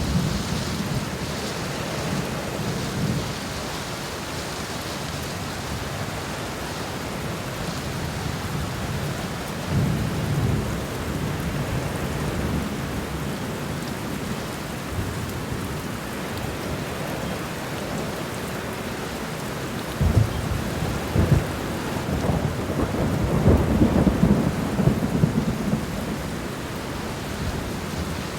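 Steady rain falling on the ground and leaves, an even hiss, with low rumbles that swell up a few times and are loudest about twenty seconds in.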